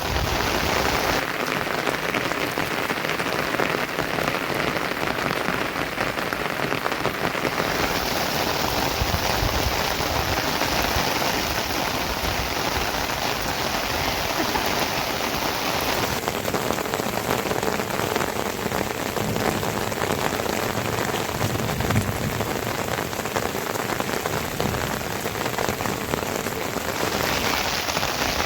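Steady, heavy rain falling, a dense patter of drops on surfaces. Its tone changes abruptly a few times.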